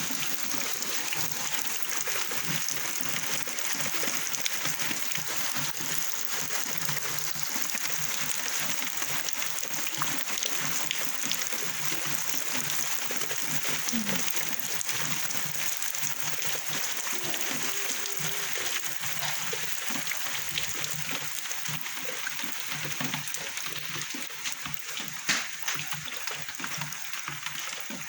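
Steady rain falling, a continuous hiss of pattering drops with many fine clicks.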